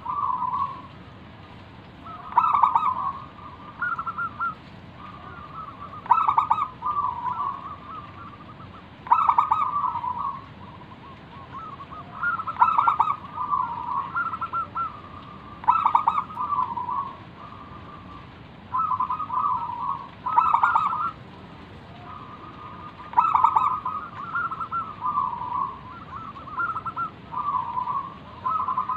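Zebra dove (perkutut) singing its full cooing song, about ten repeated phrases roughly three seconds apart. Each phrase opens with a quick stuttered run of notes and ends in a few longer coos.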